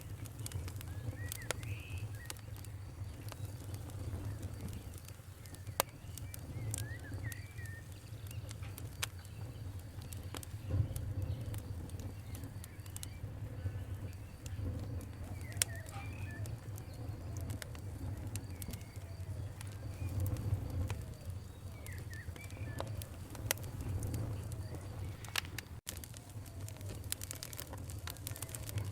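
Campfire crackling: irregular sharp pops and snaps over a steady low rumble, with birds chirping now and then.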